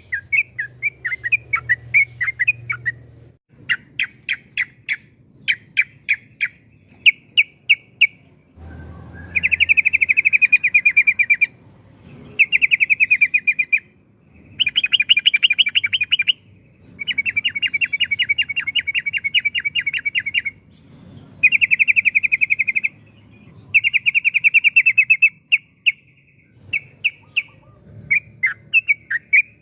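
Yellow-vented bulbul (trucukan) singing. Loose runs of short chirps give way about nine seconds in to a series of long, fast trills of rapidly repeated notes, each lasting two to three seconds with short pauses between, before short chirps return near the end.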